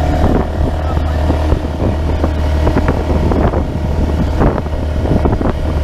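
Small engine running steadily, with wind buffeting the microphone.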